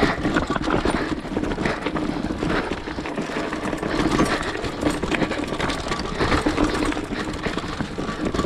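Small off-road engine running at low, slightly varying revs while the vehicle crawls over rough, rocky ground, with irregular clatter and knocks.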